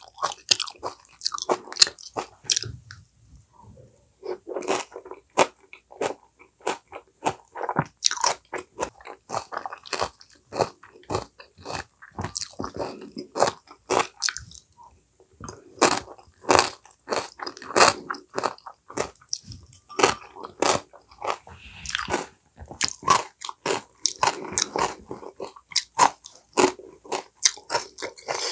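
Close-miked chewing and biting of crunchy food, a dense run of irregular crisp crunches, with a short lull about three seconds in.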